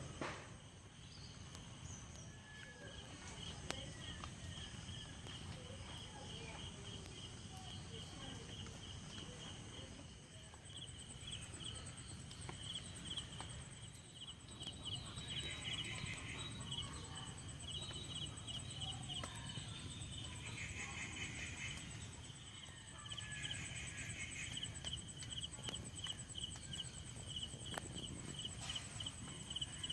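Insects chirping in a steady, rapidly pulsed trill, joined about ten seconds in by a second, higher-pitched trill, over a low rumble.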